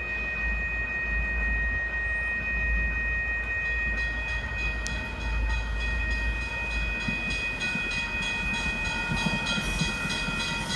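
MBTA commuter rail train, pushed by an F40PH-2C diesel locomotive, coming into the station. An evenly repeating ringing starts about four seconds in, and wheel clatter on the rails builds near the end.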